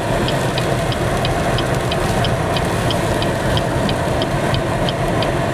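Steady car engine and road noise heard from inside the cabin, with an evenly spaced ticking of about three ticks a second, like a turn-signal indicator clicking.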